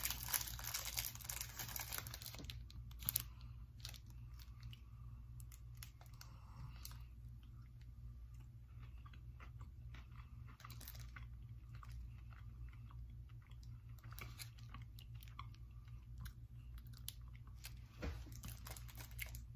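Close-up chewing and crunching of a Cadbury Boost bar, a chocolate bar with caramel and a biscuit centre, with scattered small crunches and mouth clicks. A rush of wrapper crinkling fills the first two seconds or so, and a steady low hum runs underneath.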